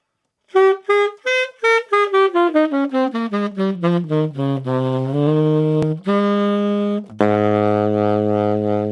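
SaxWorks Master Series SML tenor saxophone played solo. About half a second in it starts a run of short, separate notes stepping downward, which lengthen into held notes in the low register. It ends on a long, low note near the bottom of the horn's range, from about seven seconds in.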